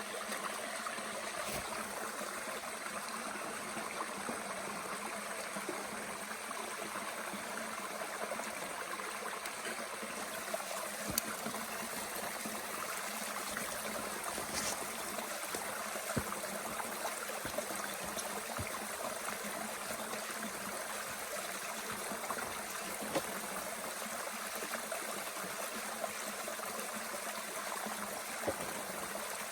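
Mountain stream running steadily, with a few sharp pops from a small wood fire burning in a Bushbox stove.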